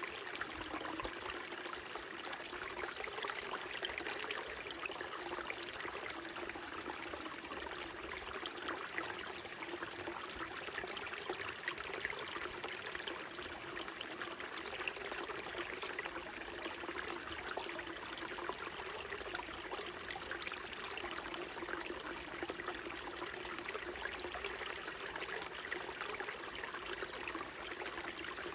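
Small mountain stream babbling and trickling over rocks, a steady flow of water with fine splashes throughout.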